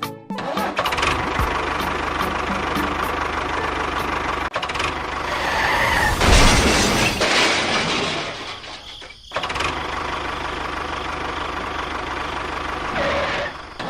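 An engine running steadily with a regular low pulse. It grows louder in the middle, cuts out briefly about nine seconds in, then picks up again.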